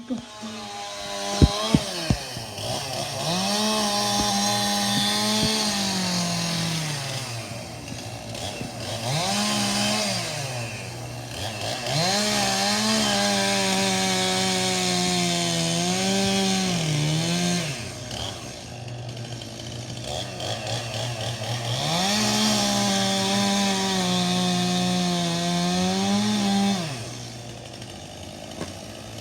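Two-stroke chainsaw running, revved up to full speed and let back down to idle four times. Two sharp knocks about a second and a half in.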